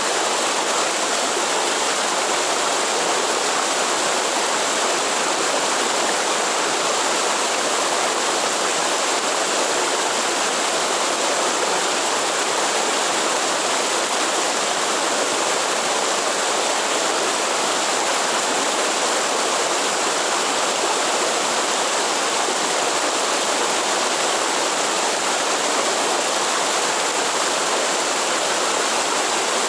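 Waterfall or cascading forest stream, water falling and running in a steady, unbroken rush.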